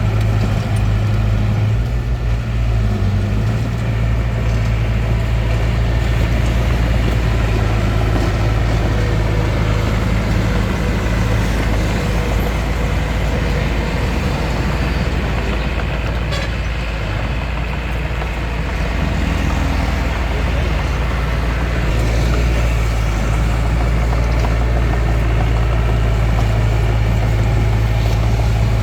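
Bulldozer's diesel engine running under work, a steady low hum whose note eases off in the middle and picks up again near the end.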